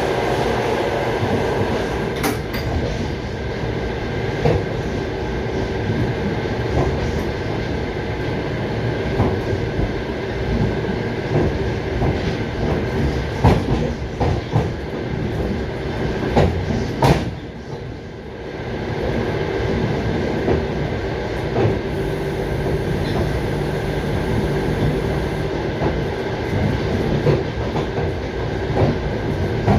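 Passenger train running along the track, heard from inside a carriage: a steady rumble with irregular clacks of the wheels over rail joints, and a brief lull a little past halfway.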